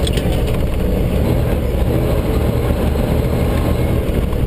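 Fire department brush truck's engine running steadily at low revs, a constant low drone.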